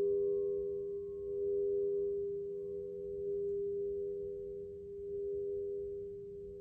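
Alchemical crystal singing bowl sustaining a pure, steady ringing tone made of two close pitches, its loudness swelling and easing slowly.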